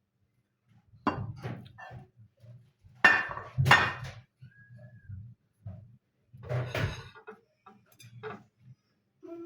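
Dishes and cutlery clinking and knocking as they are handled, in several separate sharp clinks with the loudest a little past three seconds in.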